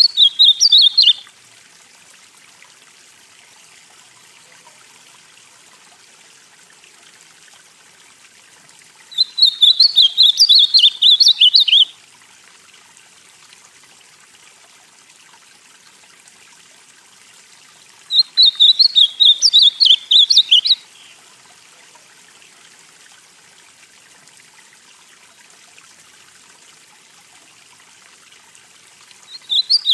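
Ultramarine grosbeak (azulão, the northeastern form) singing short warbled phrases of quick notes, each under three seconds long, repeated about every nine seconds. One phrase is ending right at the start, two full phrases follow, and another begins near the end. A faint steady hiss sits underneath.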